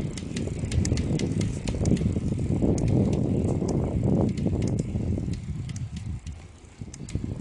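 Shimano PD-A600 clipless pedals making their abnormal noise while the bike is ridden: repeated sharp clicks over a low rumble, the rumble dying away after about five seconds. It is a fault noise that appeared after two months of use, loud enough to be heard about 20 m away.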